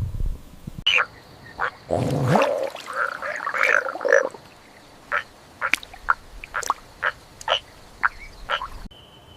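An animal calling: a run of short, sharp calls, roughly one a second, with two longer, fuller calls about two and four seconds in.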